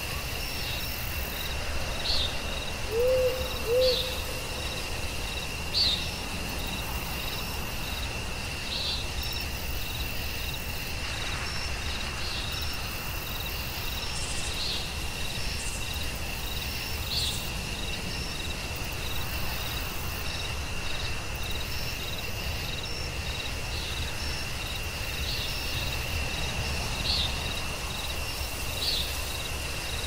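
Night forest ambience: a steady high insect trill, with short high chirps every few seconds, and an owl hooting twice about three seconds in.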